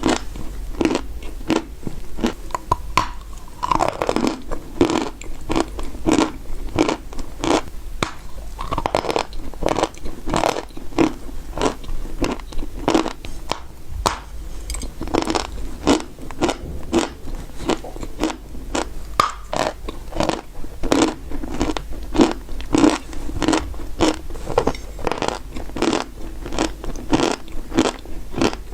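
Close-miked crunching and chewing of dry edible clay: a steady run of sharp crunches, about two a second.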